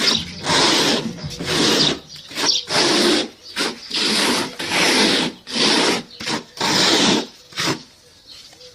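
Plastering float or trowel rubbing and scraping over decorative plaster on a wall in repeated strokes, about one stroke a second, texturing it into the 'rain' pattern. The strokes thin out near the end.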